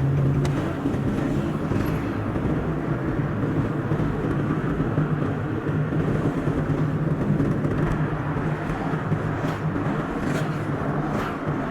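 Car driving on a road: steady engine and tyre noise with a constant low hum.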